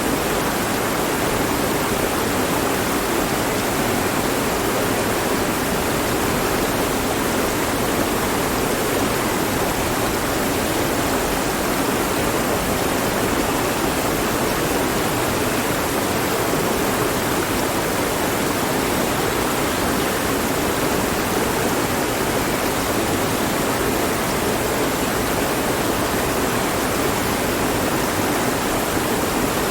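Mountain stream rushing steadily over rocks, an even, unbroken wash of water noise.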